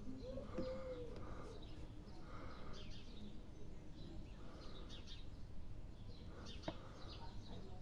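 Birds chirping, with one short low cooing call about half a second in, over a steady low background rumble.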